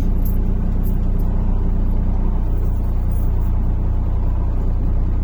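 MAZ-103 city bus heard from inside while under way: a steady low engine and road rumble, with the engine note dropping a little about two and a half seconds in.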